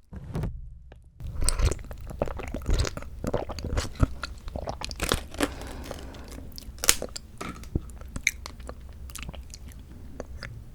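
Close-miked chewing of canned mandarin orange segments from a fruit cup: wet, squishy bites with many sharp mouth clicks. A brief gap in the sound about the first second.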